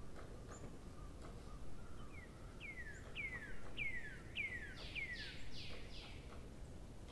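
A bird singing: a run of about eight clear notes, each sliding downward, about two a second. The last few notes are fuller and harsher, and a few short high chirps come before the run.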